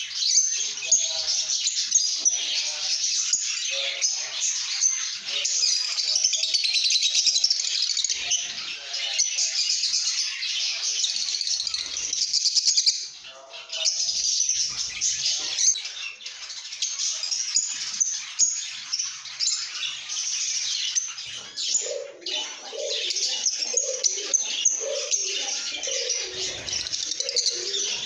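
A group of lovebirds chattering and chirping without pause in a dense, high-pitched mix of calls. Lower-pitched calls join in over the last several seconds.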